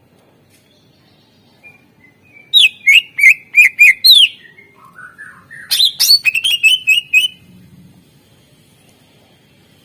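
Cucak ijo (greater green leafbird) singing. First comes a string of about six loud, sharp notes that slide down in pitch, then a short, softer, lower warble, then a faster run of about eight sharp notes.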